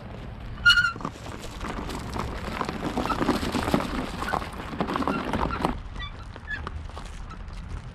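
Geese honking. One sharp call comes about a second in, then a busy stretch of noisy clatter for several seconds, and a few fainter calls near the end.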